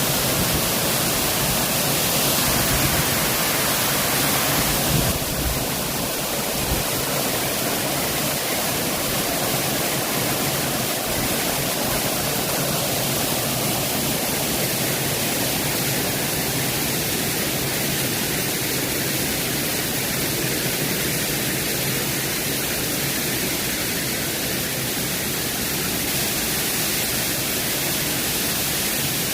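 Waterfall rushing steadily. The high hiss is briefly brighter a few seconds in.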